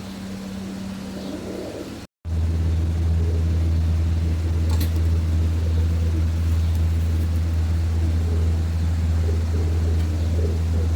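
A loud, steady low hum from a motor or machine, with pigeons cooing faintly in the background. The sound cuts out for a moment about two seconds in, and the hum is louder after the break.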